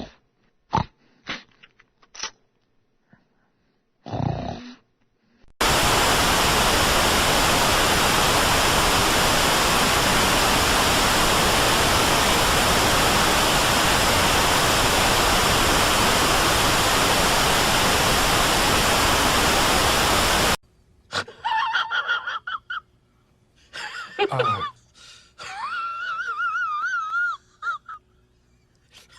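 A run of sound effects: a few short clicks and a brief burst, then a loud steady hiss like white noise lasting about fifteen seconds that cuts off abruptly, followed by several short effects with wavering, warbling tones.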